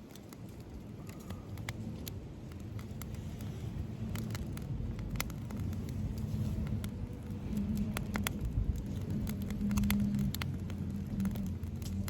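Campfire wood crackling with irregular sharp pops, over a low rumble with a hum that grows stronger about halfway through.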